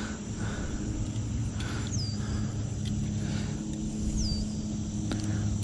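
A steady low mechanical hum with faint soft swishes, and a short falling chirp twice, about two and four seconds in.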